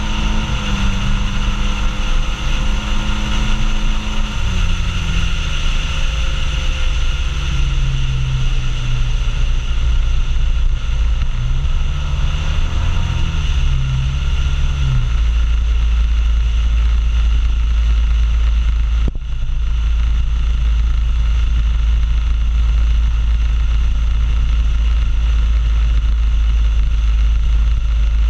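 Suzuki Burgman 650 maxi-scooter under way on the road: its engine runs beneath heavy wind noise on the microphone. The engine tone drops in pitch in a few steps over the first fifteen seconds, and after that a steady low wind rumble takes over.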